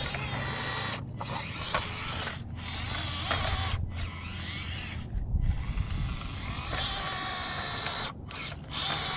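Small RC trail truck's electric motor and gears whining as it crawls, the pitch rising and falling with the throttle. The whine cuts off abruptly several times where the throttle is let off.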